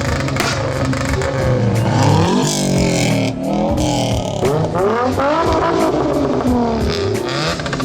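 A car engine being revved hard again and again, its pitch climbing and falling several times.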